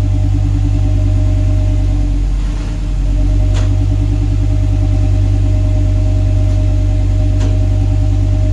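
V10 engine in a Kaiser Jeep M715 truck idling steadily through its full custom exhaust, freshly rebuilt.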